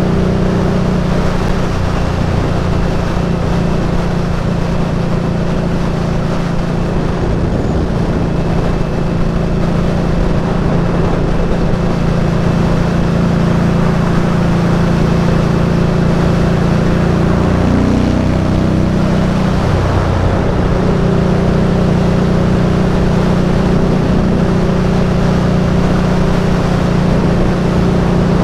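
Indian Scout Bobber's V-twin engine running steadily under way. About two-thirds of the way through, the revs drop briefly, then climb back to a steady note.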